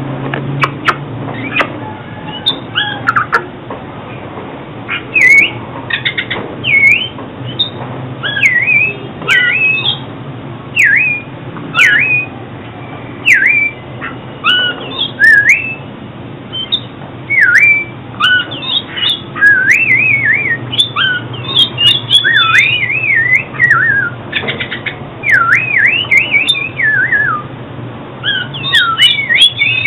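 Oriental magpie-robin singing: a continuous string of varied whistled notes sweeping up and down in quick phrases with short gaps, over a low steady hum.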